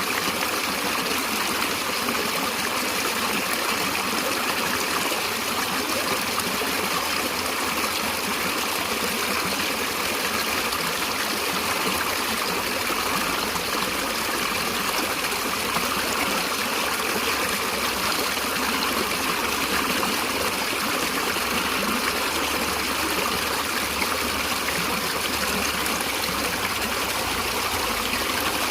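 Stream water flowing and trickling in a steady, unbroken rush.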